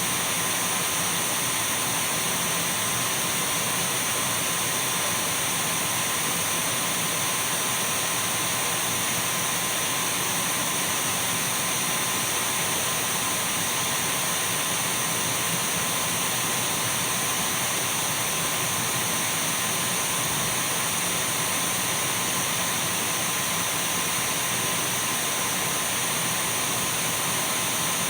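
Dyson V12 cordless stick vacuum running steadily: an even rush of air with a thin high whine and a fainter mid-pitched tone, unchanging throughout.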